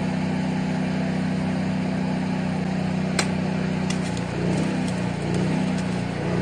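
A steady low machine hum from a running motor, with one sharp click about three seconds in; after about four seconds the hum starts to waver.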